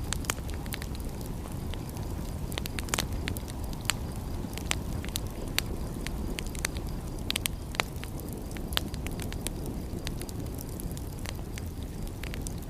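Wood fire crackling, with frequent irregular sharp pops and snaps over a steady low rushing background.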